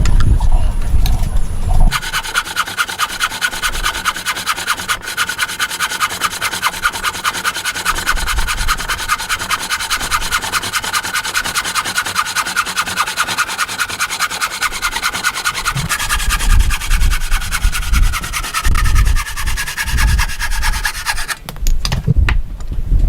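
A hand tool rasping steadily on wood in fast, even strokes, with a faint ringing tone that slowly falls. It starts about two seconds in, gets heavier in its last few seconds and stops suddenly near the end.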